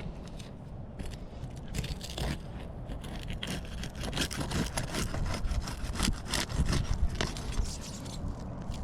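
Irregular scraping and rubbing with scattered knocks.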